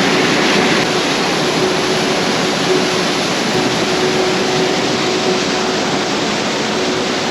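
Tunnel Falls plunging down close by: a loud, steady roar of falling water.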